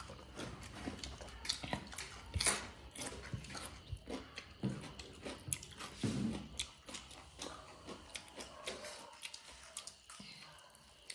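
A person chewing and biting food from a meal of chicken and cucumber: a run of short wet clicks and chewing noises that thins out near the end.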